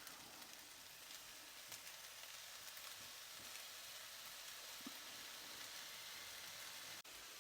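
Chicken, rice and vegetables sizzling faintly and steadily in a frying pan, with a brief dropout near the end.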